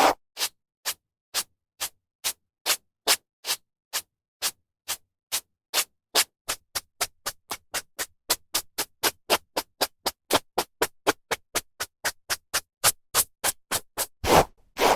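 A hairbrush drawn through hair in a series of short strokes, each followed by silence. The strokes come about two a second at first, quicken to around four a second through the middle, and turn slower, longer and louder near the end.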